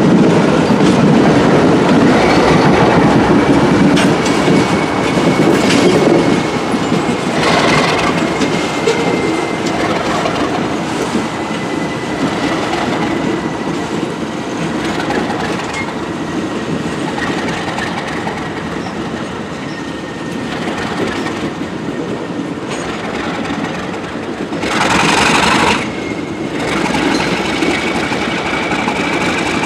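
Alco RS32 diesel locomotive shoving a covered hopper car slowly past: steel wheels rumble and clack over the rails, with a thin steady flange squeal, and the sound eases as the train moves away. A hiss lasting about a second comes near the end.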